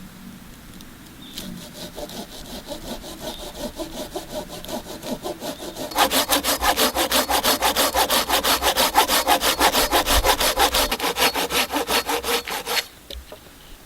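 Hand saw cutting through wood in quick, even back-and-forth strokes. The strokes start softly, get much louder about halfway through, then stop suddenly near the end.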